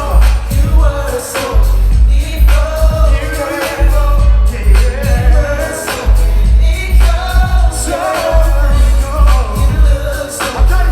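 Live R&B concert music: singing over a loud backing with heavy bass.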